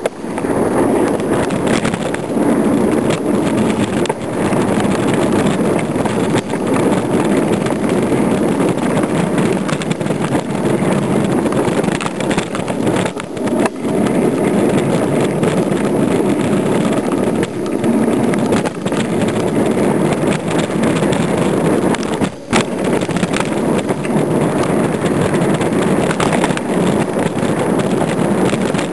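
Mountain bike riding a dirt trail: a steady rushing of wind over the microphone mixed with the rumble and rattle of tyres and frame on the rough ground, dipping briefly twice.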